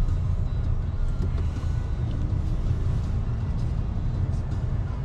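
BYD Seagull electric car driving: steady low road and tyre rumble with no engine sound.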